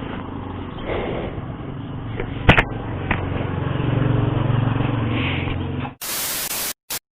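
KTM RC 390's single-cylinder engine idling, with a sharp click about two and a half seconds in. Near the end a short burst of hiss cuts in twice and stops abruptly.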